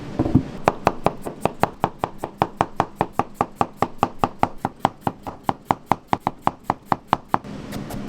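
A knife striking a cutting board in a fast, steady run of chops, about five to six a second, which stops near the end.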